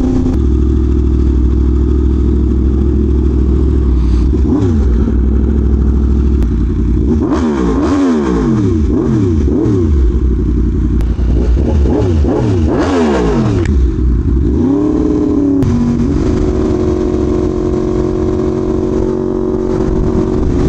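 Yamaha R1M's crossplane inline-four engine running under way. Its pitch rises and falls several times through the middle as the throttle and gears change, then it settles into a steady cruise near the end.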